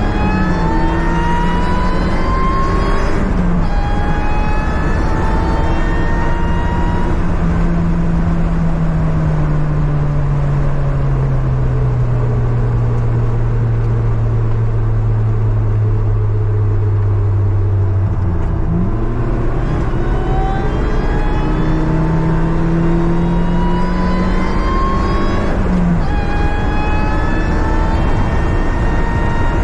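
Car engine being driven hard on a race circuit. The revs climb and drop back at each gear change, sink slowly as the driver eases off, then rise sharply again after a quick blip, over a constant loud noise of road and wind.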